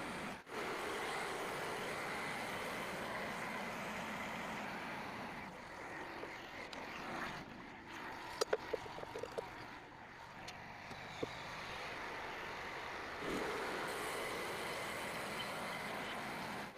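Portable band sawmill running steadily, its engine and band blade making a continuous mechanical noise that eases off in the middle and picks up again near the end, with a few short sharp clicks around the middle.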